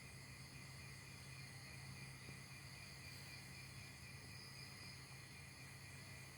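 Near silence: a faint, steady high-pitched hiss over a low hum, unchanging throughout.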